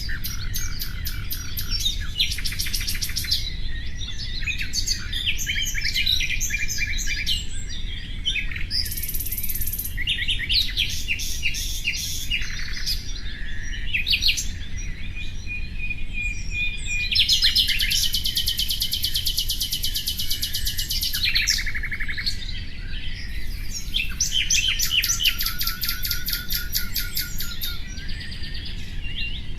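Nightingale singing: a varied run of rapid repeated notes, trills and whistled phrases with short pauses between them, over a steady low background rumble.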